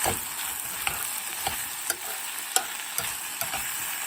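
Khô quẹt sauce frying in a pan, a steady sizzling hiss, with irregular light clicks of a utensil against the pan as it is stirred.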